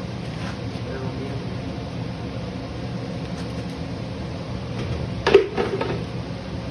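Steady low hum in a workshop, with one sharp knock about five seconds in followed by a few lighter clicks.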